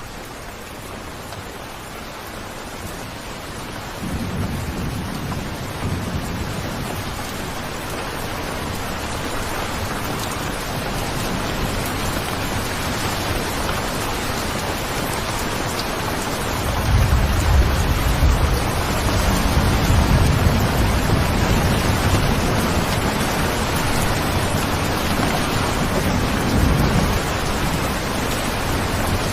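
Steady rain, growing heavier, with rolling thunder: a low rumble about four seconds in, and a longer, louder roll from just past halfway until near the end.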